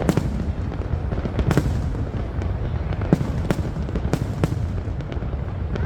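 Fireworks display: irregularly spaced sharp bangs and cracks, about a dozen, over a continuous low rumble of bursts.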